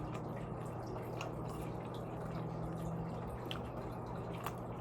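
Faint wet eating sounds: scattered small clicks and squishes of nacho fries dipped in nacho cheese and chewed, over a steady low hum.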